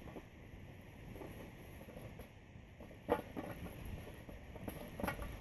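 Hot charcoal briquettes being set around and on top of a metal pot, with two sharp clinks, one about three seconds in and one about five seconds in, over faint outdoor hiss.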